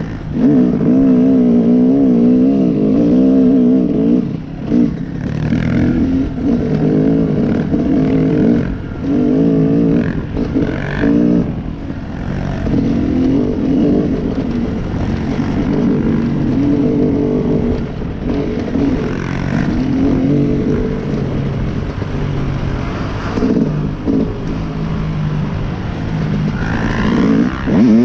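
Honda CRF110 dirt bike's small four-stroke single-cylinder engine being ridden, its pitch rising and falling as the throttle is opened and closed.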